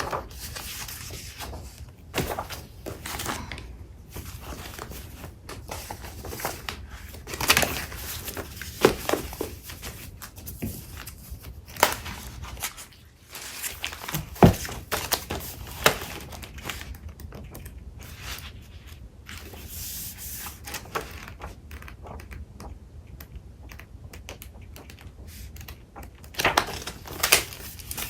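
Paper crafting supplies handled by hand: sheets of paper shuffling and rustling, with scattered sharp clicks and taps, several close together near the end.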